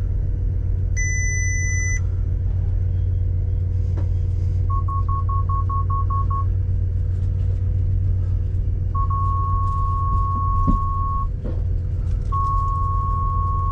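Bentley Continental's parking sensors warning inside the cabin: a run of fast, evenly spaced beeps, then a long steady tone twice, the solid tone meaning an obstacle is very close. A short higher chime sounds about a second in, over the low rumble of the car.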